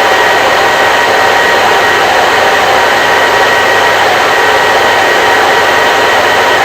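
Electric hair dryer running steadily: an even, unbroken rush of blown air with a faint steady whine from its fan motor.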